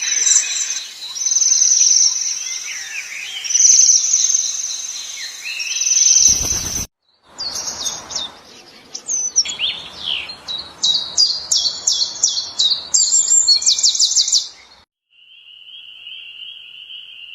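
Birds singing and calling with high, rapidly repeated trilled notes, in two separate recordings joined by an abrupt cut about six seconds in. Near the end comes one steady high tone.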